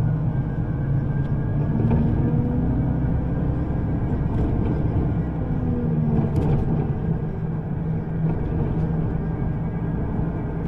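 A public transport vehicle running between stops, heard from inside: a steady low rumble with faint motor tones that rise and fall slowly.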